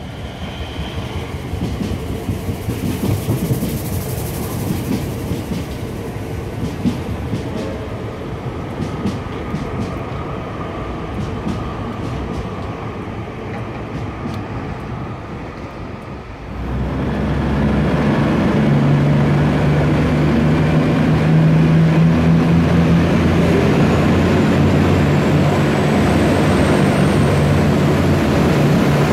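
Siemens electric suburban train rumbling past with wheels clicking over the rails. About two-thirds of the way in, it gives way abruptly to the steady drone of a V/Line VLocity diesel railcar's engines running at a station.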